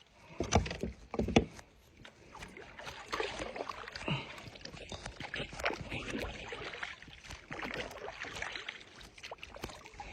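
Two sharp knocks on a kayak hull, then water splashing and sloshing against the kayak in irregular strokes.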